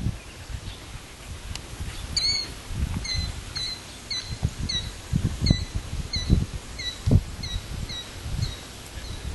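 A bird calling in a steady series of short chirps, about two or three a second, starting about two seconds in and fading toward the end, over low irregular rumbling.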